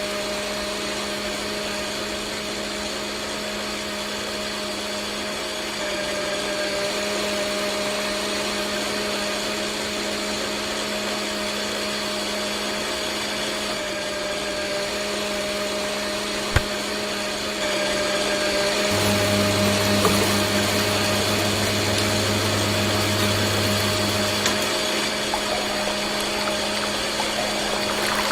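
Small electric motors of a homemade miniature machine running with a steady whine. A second, lower motor hum joins about two-thirds of the way in and stops about five seconds later, and there is a single sharp click shortly before it starts.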